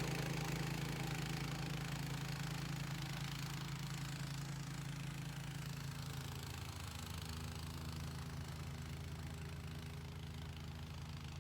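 Troy-Bilt Storm 2410 two-stage snowblower's small single-cylinder engine running steadily, growing gradually fainter.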